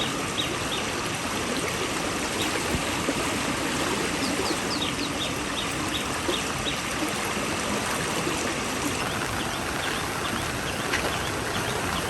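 Floodwater running steadily, a constant rushing wash. Short high chirps come now and then, with a run of them a little before the middle.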